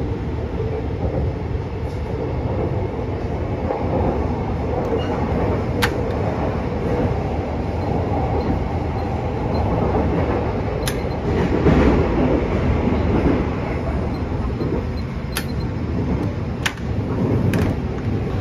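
Running noise of the Sunrise Izumo (285-series sleeper train) heard from inside a compartment: a steady low rumble, with a few sharp clicks through it.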